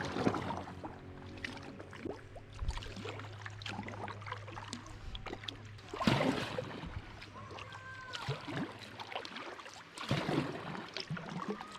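Kayak paddling on a river: paddle blades dipping and splashing in irregular strokes, with water dripping between them. The loudest splashes come about six and ten seconds in.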